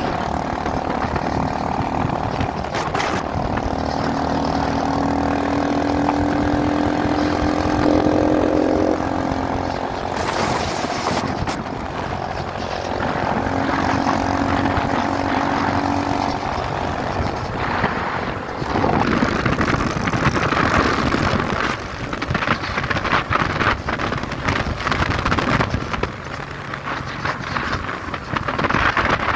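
Motorcycle engine running under way with wind rushing over the microphone. The engine note shifts and glides in pitch in the first half, and the wind rush dominates from a little past the middle.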